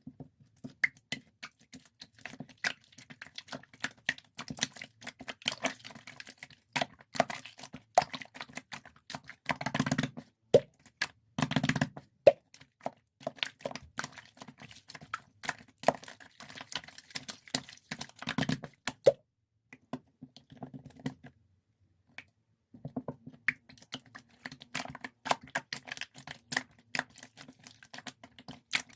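Many small clicks, taps and pops close to the microphone in irregular runs, with a short lull about two-thirds of the way through.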